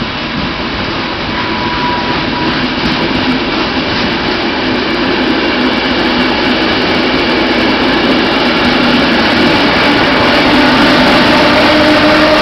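Frecciabianca passenger train pulling into a station: a steady rumble with several held whining tones, growing gradually louder.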